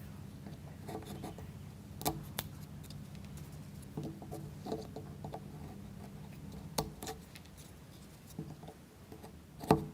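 Small wooden model-kit parts being handled and pressed together: a few sharp light clicks and knocks, about two seconds in, again near seven seconds and near the end, with quiet rustling handling between them over a faint steady low hum.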